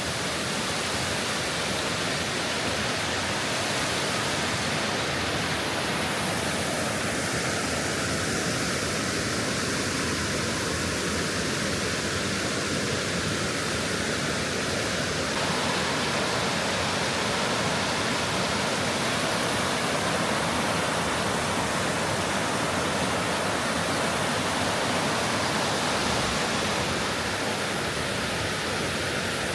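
Wide stream rushing steadily over its bed, a continuous even roar of water.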